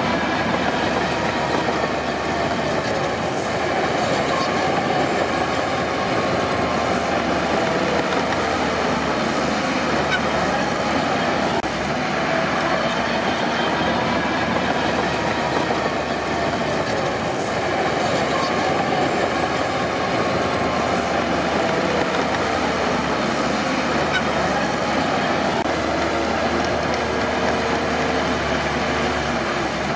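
Crawler bulldozer at work: its diesel engine runs steadily under load, pitch wavering, over the clanking and squealing of its steel tracks.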